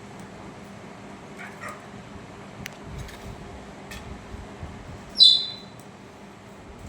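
Budgerigars calling: a couple of faint chirps, a few small clicks, then one loud, short high chirp about five seconds in.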